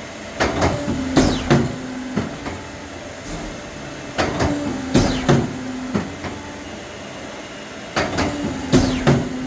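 Print-shop production machine running through a repeating cycle: a burst of clacks and knocks with a low hum, coming round about every four seconds, three times.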